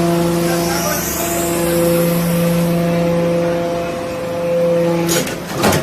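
Metal-chip briquetting press running with a steady hum from its hydraulic pump motor. About five seconds in, a few sharp clattering knocks break in.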